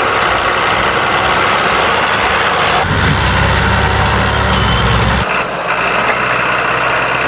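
Diesel tractor engine running hard under load. A deeper, louder engine note joins about three seconds in and cuts off just after five seconds.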